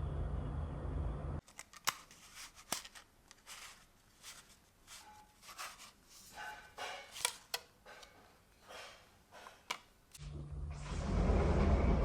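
Small sharp clicks and soft rustles of objects being handled up close, between a steady low hum that stops about a second and a half in and a louder hum with hiss that starts near the end.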